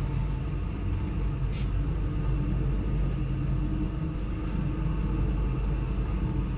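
A ShchLZ elevator running: a steady low rumble with an even hum from the loud freight-passenger car's drive, which the owner takes to be a 13VTR motor.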